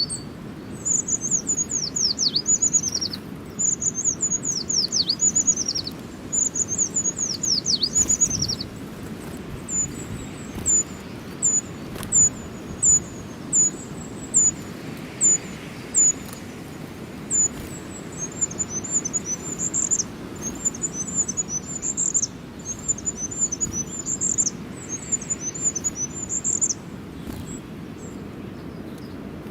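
Small songbirds singing: first several phrases of quick downward-sweeping whistles, then a run of single high chirps about once a second, then fast high twittering that stops a few seconds before the end. A steady low rumble sits underneath.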